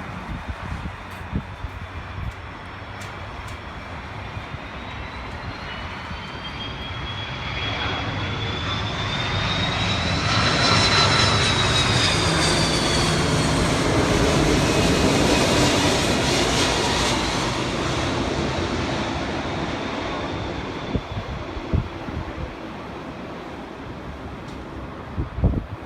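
An airplane passing overhead. The engine noise builds for about ten seconds, peaks, then fades, with a high whine that rises and then falls in pitch as it goes by.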